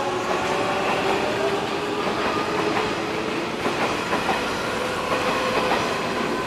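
Hanshin electric trains running through the station: a steady rumble of wheels on rail with a faint motor whine. Wheel clacks over rail joints come in from about halfway through.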